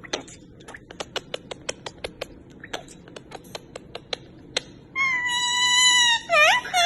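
A pet parrot imitating a cat's meow: first a run of sharp, irregular clicks, then from about five seconds in a long meow-like call, held level and then wavering up and down near the end.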